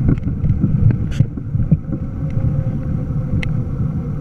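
Wind rumbling on the microphone of a rider on the move, a steady low noise with a few short clicks and rattles.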